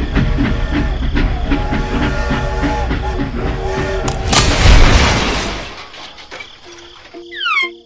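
Steady, rhythmic mechanical chugging over a hum, then a loud boom-like burst about four seconds in that dies away over a second or so. A few short falling whistle tones come near the end.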